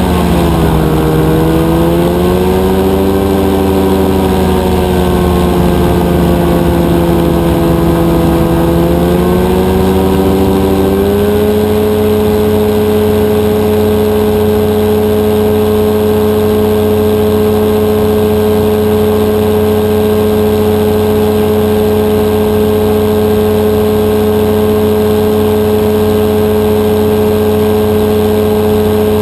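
Rotax 582 two-cylinder two-stroke engine of a powered parachute running loud. Its pitch wavers down and back up for about the first ten seconds, climbs to a higher steady note, and then holds constant.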